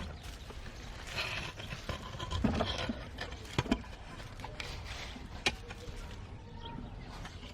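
Chickens moving about: a few short clucking calls mixed with scattered sharp taps, over a low steady background hum.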